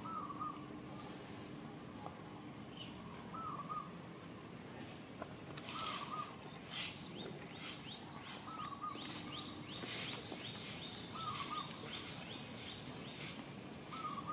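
A bird repeats a short wavering call every two seconds or so, with a steady outdoor hiss behind it; from about halfway a regular high pulsing sound joins in, about one and a half pulses a second.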